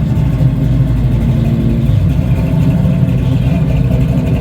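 A car engine running steadily close by, a deep, even engine sound with no clear change in speed.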